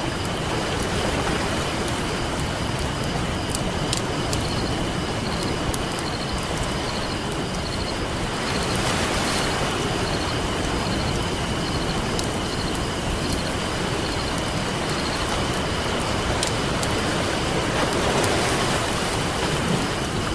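Campfire crackling with sharp scattered pops over the steady wash of ocean waves, the surf swelling twice. A thin steady high tone runs underneath.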